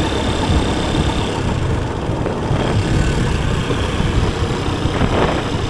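Motorcycle engine running steadily while riding, a loud constant rumble of engine and road noise.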